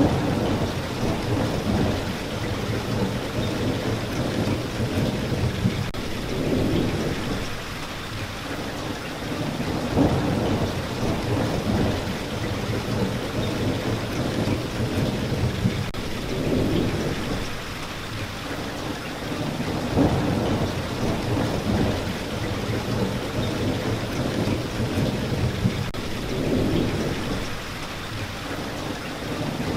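Steady rain, with low rolling rumbles of thunder swelling up every few seconds beneath it.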